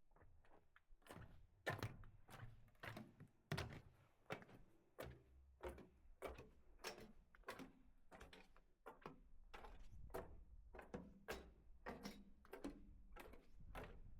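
Faint, even footsteps of a hiker walking on a winter mountain trail, a little under two steps a second.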